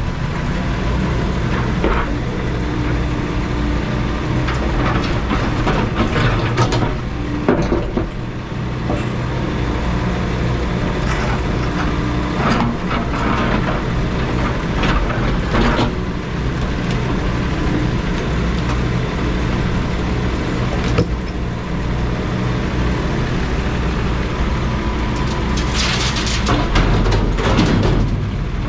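Heavy equipment engine running steadily at a work site, with occasional clanks and knocks, a cluster of them near the end.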